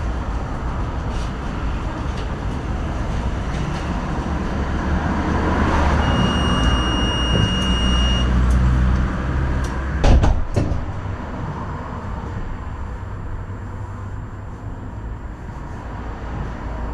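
Tram running with a steady low rumble. Partway through, a steady high-pitched beep sounds for about two seconds, and a sharp knock follows about two seconds later.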